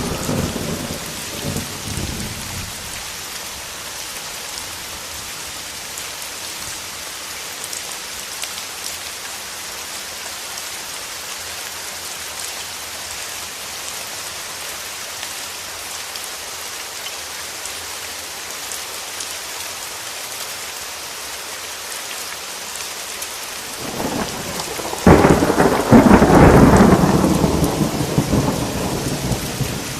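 Steady rain falling in a thunderstorm, with the tail of a thunder rumble dying away in the first couple of seconds. About 24 seconds in, thunder builds, breaks in a sudden loud crack and rolls on for several seconds, fading near the end.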